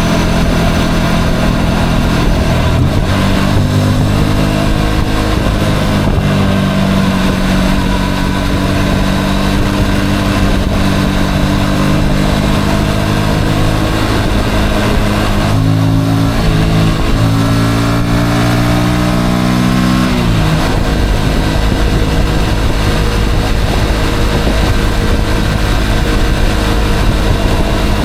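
Motorcycle engine running while riding, with a steady rush of wind and road noise. The engine pulls up in pitch about three seconds in, changes pitch around sixteen seconds, rises again, and its note drops away abruptly about twenty seconds in.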